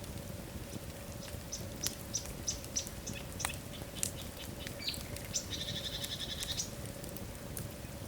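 Wood fire burning in a fireplace: logs crackling with scattered sharp pops over a low steady rumble, and a brief high-pitched chirping trill about five and a half seconds in.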